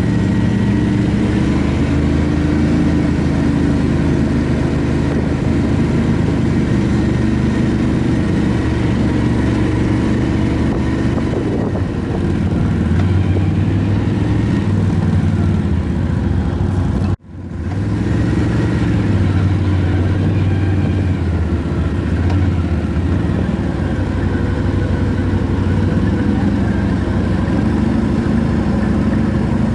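ATV engine running while being ridden, its pitch rising and falling with the throttle. The sound drops out for an instant a little past halfway, then the engine carries on.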